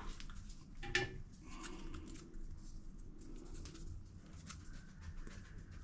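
Faint handling noises of plumbing work: scattered light clicks and rustling as thread tape is wrapped onto a faucet fitting, with one sharper click about a second in.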